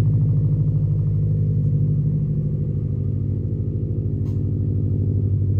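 Car engine idling just after a cold start, with a steady, even pulsing exhaust beat that eases slightly midway and then builds back.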